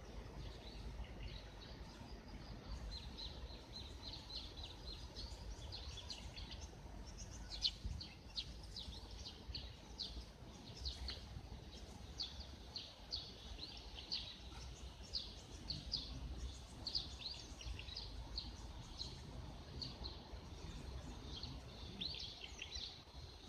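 Small birds chirping, many short high calls one after another, over a low rumble.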